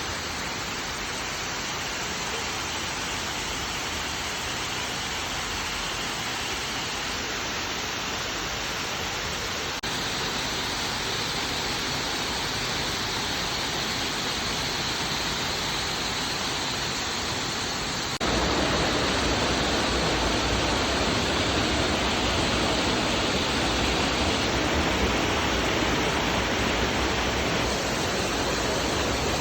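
Waterfall, a steady rushing of falling water. It gets louder in two sudden steps, about ten and eighteen seconds in.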